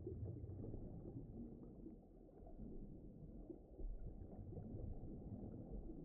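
Faint underwater ocean ambience: a muffled low rumble that swells and eases, with nothing in the upper range.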